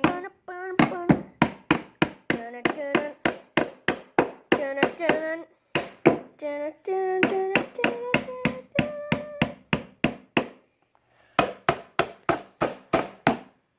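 A hammer driving nails into cedar fence-picket boards: a steady run of sharp strikes, about three a second. The strikes pause for about a second near the end, then one more quick series follows.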